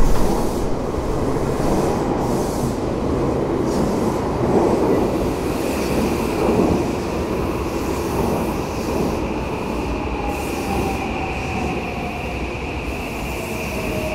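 Odakyu Series 1000 electric train pulling into the platform and slowing, a low rumble of wheels and running gear after a thump at the start. A high steady squeal sets in about six seconds in, and from about ten seconds in the traction motor whine falls in pitch as the train slows.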